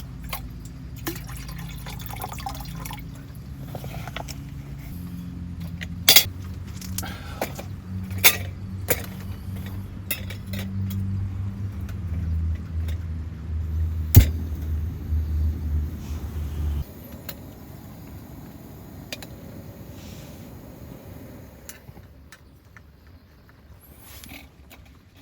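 Glass clinks and liquid being poured into a glass, with a few sharp knocks, over a low steady rumble that stops suddenly about two-thirds of the way through.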